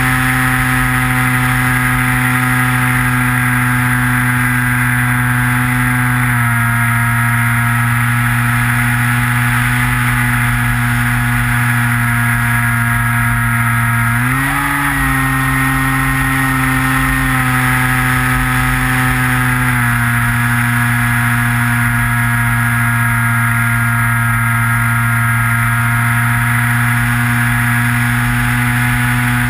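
Electric motor and propeller of a Skywalker FPV plane droning steadily, heard from on board over a constant rush of wind. The pitch steps down slightly a few seconds in, rises briefly in the middle as the throttle is opened, then settles back.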